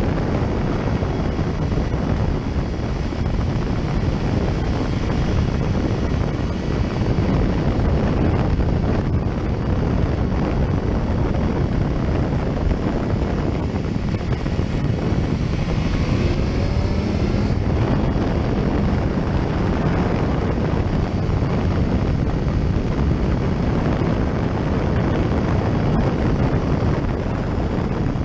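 Motorcycle riding at speed, with steady wind rush on the microphone over engine and road noise. A faint rising whine comes in about halfway through.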